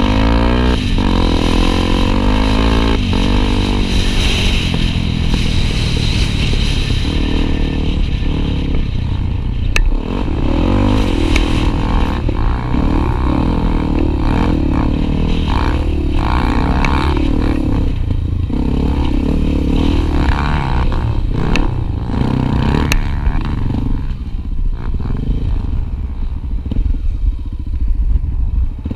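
Honda Tornado single-cylinder trail motorcycle engine running on a dirt trail, its revs rising and falling with throttle and gear changes, with scattered knocks and rattles over the rough ground.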